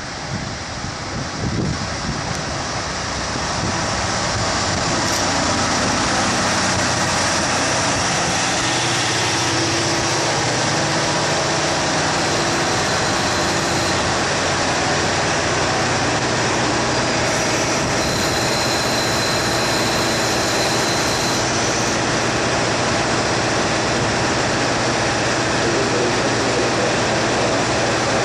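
KiHa 183 series diesel express railcars running into a station, with engine and wheel-on-rail noise that grows louder over the first few seconds and then holds steady. A thin high tone sounds for a few seconds past the middle.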